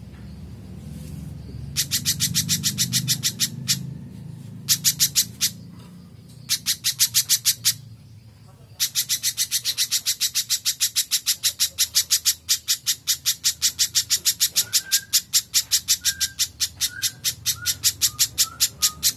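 Spiderhunter (pijantung) calling: fast strings of sharp, evenly repeated chips, about seven a second, in short bursts at first and then one long unbroken run from about halfway through. Faint short whistled notes from another bird come in near the end over a low background hum.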